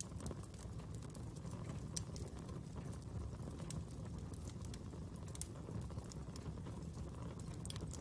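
Wood fire crackling: a steady low rumble of burning with irregular sharp pops and snaps scattered through it, a few louder ones standing out.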